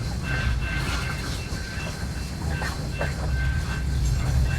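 BNSF freight train rolling by: a steady low rumble of wheels on rail, with a thin, steady high whine running through it.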